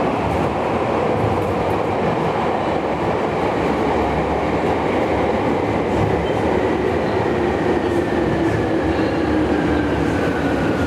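Running noise heard inside a Nagano Electric Railway 3500-series electric train car: a steady rumble of wheels on the track with a faint motor whine that slowly falls in pitch over the second half as the train slows.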